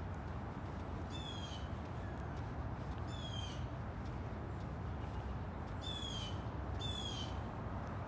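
A bird in the trees gives four harsh, slightly falling calls, each about half a second long, about a second in, about three seconds in and twice near the end. A steady low rumble runs underneath.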